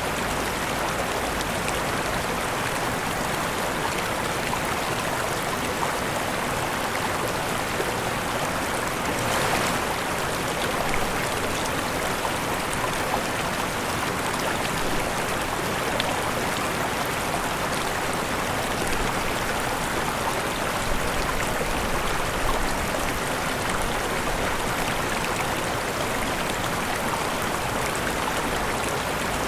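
Waterfall: water falling and rushing steadily, with a slight swell about ten seconds in.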